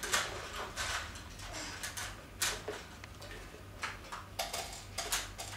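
A scattering of light knocks and clicks at irregular intervals, like small hard objects being handled.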